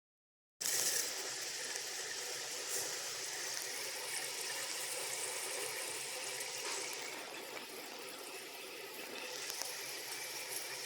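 Engine oil pouring in a steady, hissing stream during a Jeep Grand Cherokee 3.0L oil change; it starts suddenly about half a second in and stays even throughout.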